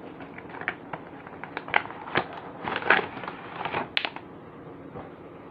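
Toy packaging of cardboard and plastic being pulled and torn open by hand, a run of irregular crackles and clicks that dies down near the end.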